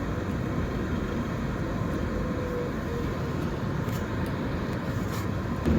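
Steady road and traffic noise from a moving vehicle, an even rumble and hiss of engine and tyres with no clear events.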